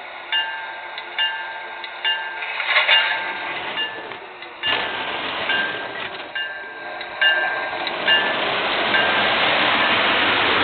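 PRR GG1 electric locomotive's bell ringing steadily, about one strike a second, as the train starts away. From about halfway through, a rising rush of running noise builds and grows louder.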